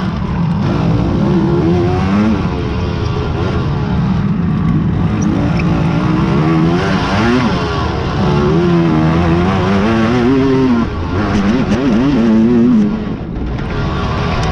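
Racing quads (ATVs) running hard, engine pitch repeatedly rising and falling with throttle and gear changes, more than one engine heard at once.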